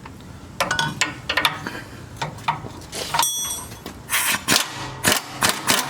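Metal hand tools and sockets clinking and knocking against the Jeep's suspension parts, with one bright metallic ring about three seconds in.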